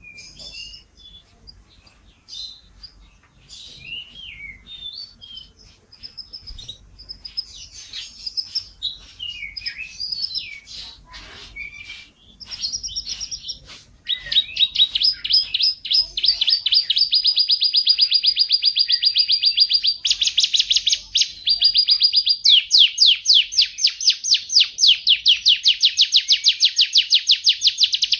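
F1 canary singing: a varied run of short chirps and whistled notes, then, about halfway through, long fast trills of rapidly repeated notes that are louder.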